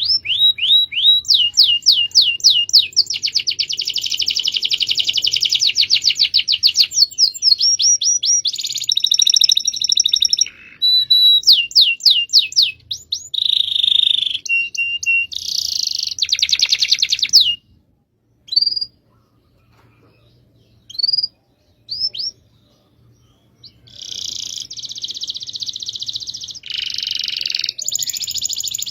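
Domestic canary singing long rolling trills: fast runs of repeated notes, rapid buzzy rolls and short whistled glides. Past the middle the song stops for several seconds, broken by a few single notes, then the trills start again.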